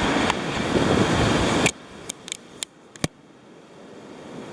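Wind and surf rushing on the microphone, cutting off suddenly under two seconds in, followed by four or five sharp clicks, then the rush slowly building back.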